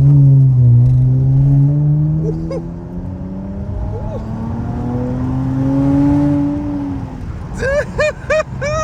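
Dodge Challenger SXT's V6 exhaust, mufflers deleted and resonators kept, under hard acceleration: the engine note climbs steadily in pitch, then eases off about seven seconds in. Short rising-and-falling calls come near the end.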